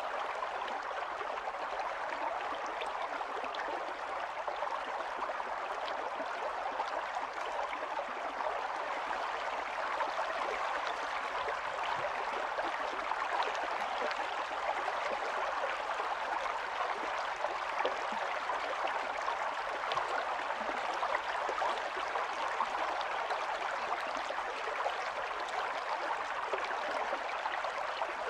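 A small stream running steadily over stones, a continuous babbling and trickling of water with fine splashing detail.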